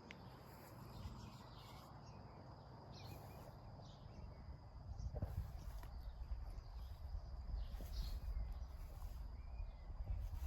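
Outdoor ambience: a low wind-like rumble that grows louder about halfway through, with short high chirps repeating every second or so.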